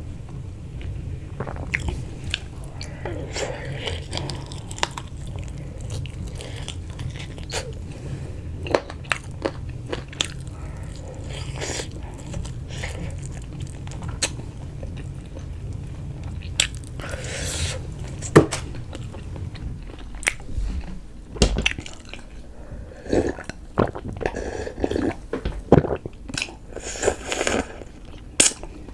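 Close-miked eating: a person biting and chewing food, with many small wet clicks and crunches from the mouth. A few longer hissy sounds come midway and near the end.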